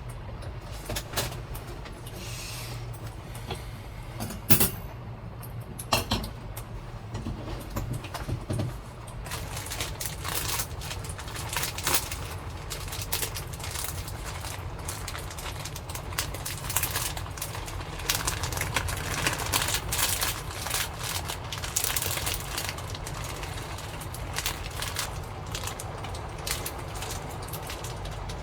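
Heavy typhoon rain pattering densely on the camper's roof and body, growing stronger about nine seconds in, over a low rumble of storm wind. A few sharp knocks sound in the first several seconds.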